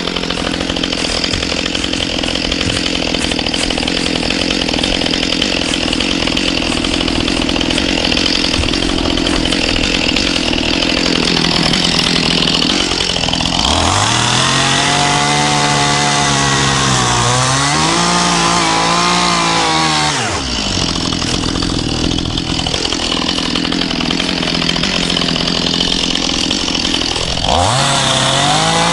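Stihl MS211C two-stroke chainsaw running hard at length, cutting brush and small trees; the engine note climbs and falls about halfway through and climbs again near the end as the throttle is worked.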